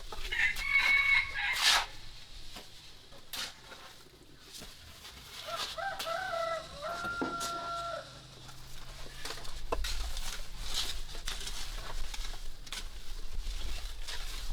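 A rooster crowing: a short call near the start, then a longer crow about halfway through that ends on a held note. Scattered sharp knocks are heard throughout.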